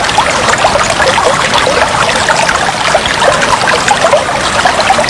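Aquarium water trickling and bubbling steadily, a dense run of small gurgles and bubble pops with no let-up.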